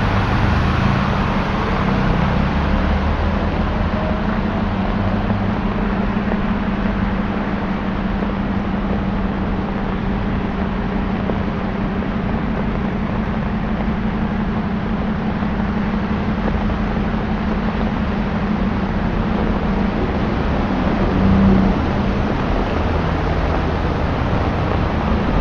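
Road traffic on a wet, rain-soaked street: a steady hiss of rain and tyres on water, with a constant low engine hum under it and a brief louder swell about 21 seconds in.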